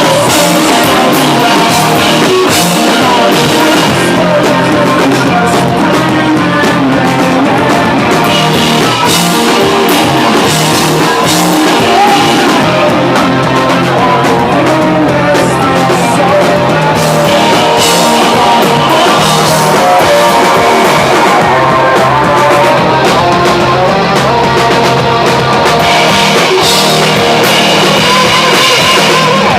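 A live rock band playing a loud song with electric guitar and drum kit.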